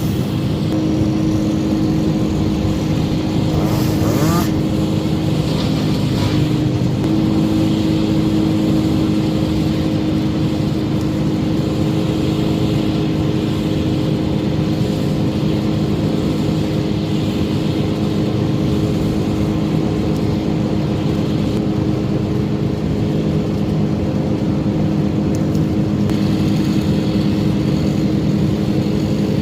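An engine running steadily under load, its pitch stepping up slightly about seven seconds in, with a brief hiss about four seconds in.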